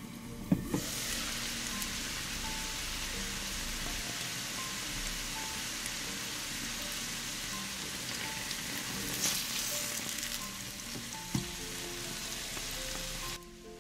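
Food frying in olive oil in a pan: a steady sizzle that starts just after a knock about half a second in and cuts off suddenly near the end, with another knock about eleven seconds in.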